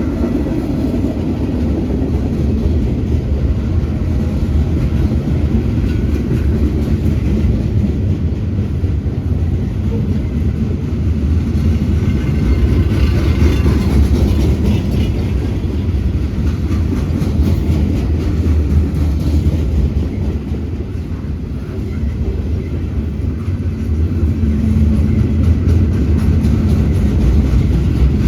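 A freight train loaded with pipe rolls past close by: a steady, loud low rumble of wheels on rail and locomotive diesels. A faint rhythmic clicking of the wheels shows up near the end.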